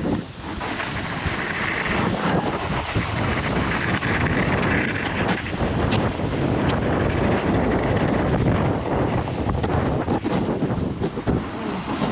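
Wind buffeting the microphone: a continuous, fluctuating rushing noise.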